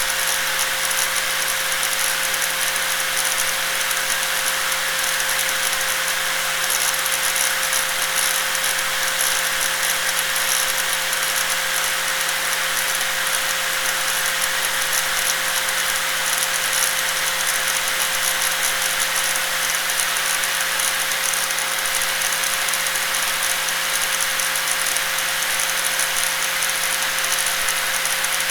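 Electric angle grinder running continuously, a steady whine holding one pitch over a dense, hissing high-pitched noise.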